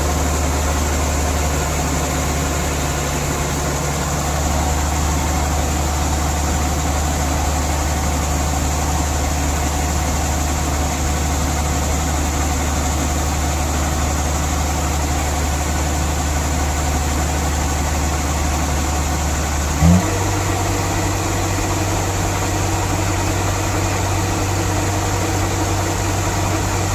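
The engine of a rice-harvesting machine running steadily with a low hum. About 20 seconds in there is a short loud burst, and the engine note then settles a little higher.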